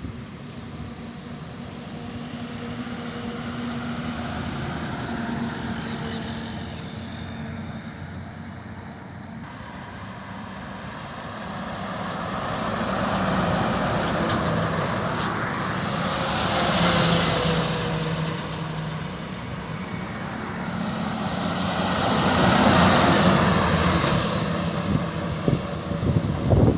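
Heavy trucks passing on a highway, their engine and tyre noise swelling and fading as each goes by; the loudest passes come in the second half.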